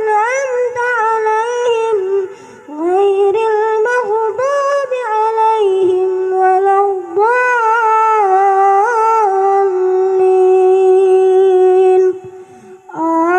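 A young boy's high voice chanting Quran recitation in an ornamented, melodic style, with long held notes and short breath pauses about two and a half seconds in and again near the end.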